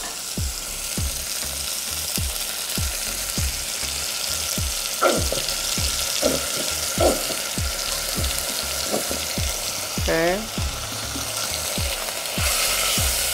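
Chicken thighs frying in a stainless steel pot, a steady sizzle as barbecue sauce is squeezed over them and stirred in with a fork. The sizzle grows louder near the end.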